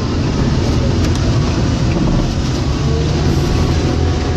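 John Deere 624J wheel loader's diesel engine running steadily as it pushes snow with its plow.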